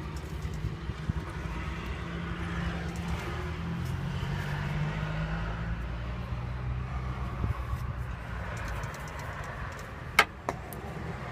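A motor vehicle engine running nearby, its pitch shifting a little, fading away about nine seconds in; a single sharp click follows about a second later.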